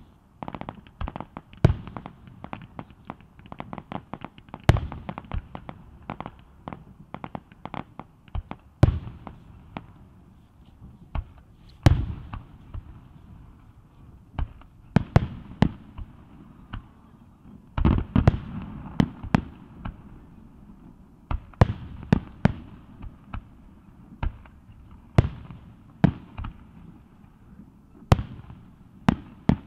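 Fireworks display: aerial shells bursting in an irregular string of sharp booms, sometimes several in quick succession, with smaller pops between them.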